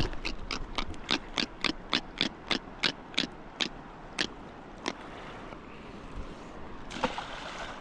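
Fishing reel clicking, about four clicks a second that space out and stop about five seconds in.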